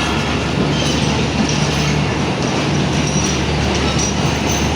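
Pakistan Railways Subuk Kharam diesel railcar running, a steady engine drone under continuous wheel-and-rail noise, with faint high squeals from the wheels.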